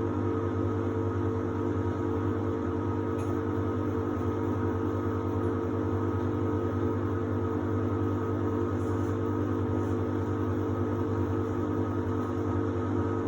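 Samsung WD70T4047CE washer-dryer running with a steady, even hum made of several held tones.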